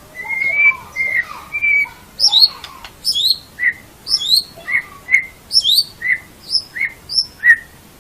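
White-rumped shama singing. It opens with clear whistled notes, then settles into a quick repeated phrase: a high sweeping note followed by a lower short whistle, over and over.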